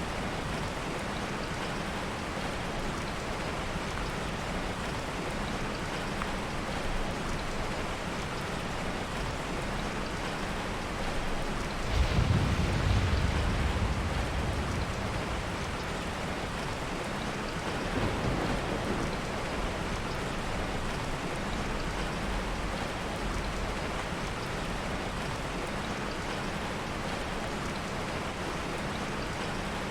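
Heavy rain falling steadily, with a low roll of thunder about twelve seconds in and a softer rumble some six seconds later.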